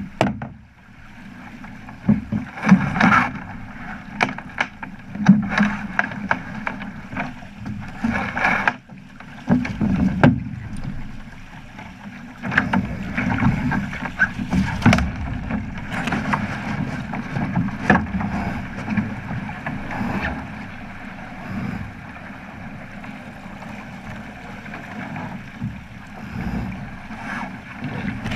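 Water rushing and slapping against the hull of a Flying Fifteen keelboat under sail, with irregular splashes and knocks, mostly in the first half. Wind buffets the microphone throughout.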